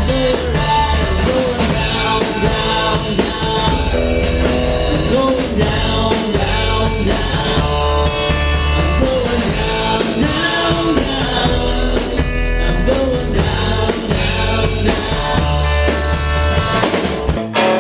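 Rock band playing: drum kit, bass and a bending melodic lead line over a steady beat. Near the end the drums and cymbals stop abruptly, leaving guitar.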